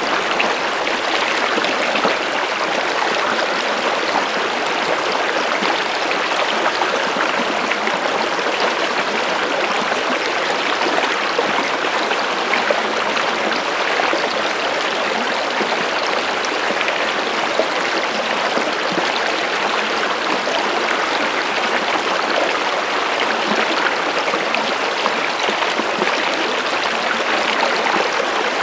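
Stream water running, a steady unbroken rush with fine splashing detail.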